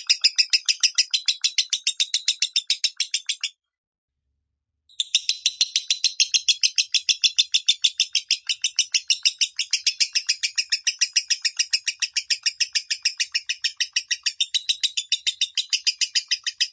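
Lovebird with a high-pitched 'minor' voice giving a long, rapid run of repeated chirps, about five a second. It breaks off about three and a half seconds in, resumes a second and a half later, and stops abruptly.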